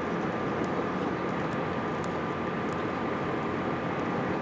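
Jet airliner noise heard from inside the cabin: a steady rumble of engines and rushing air, with a thin, steady high whine over it.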